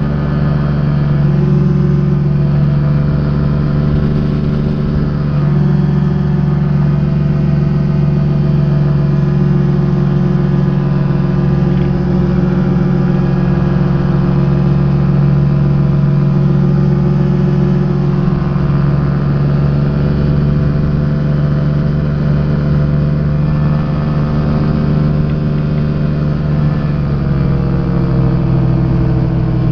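Rotax engine of a Quad City Challenger ultralight running steadily at high power, its pitch dropping slightly near the end as the throttle comes back.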